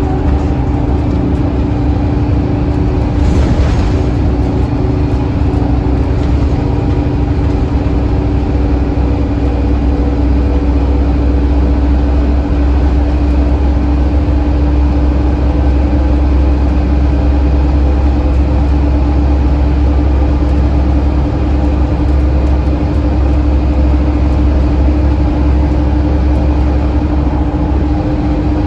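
Scania N230UD OmniCity double-decker bus running, its diesel engine and drivetrain giving a steady low drone with a constant whine over it. A short hiss comes about three seconds in.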